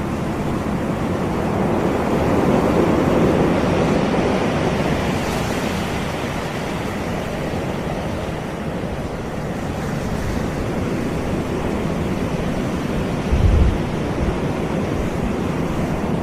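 Surf washing onto a tropical beach: a continuous rush of waves that swells a couple of seconds in and then eases off. A brief low thump stands out about 13 seconds in.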